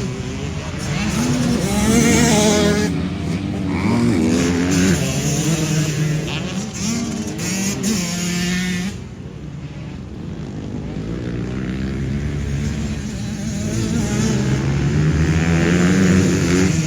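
Motocross bike engine revving hard on the track, its pitch rising and falling with the throttle and gear changes. About nine seconds in it drops off sharply, then builds steadily again.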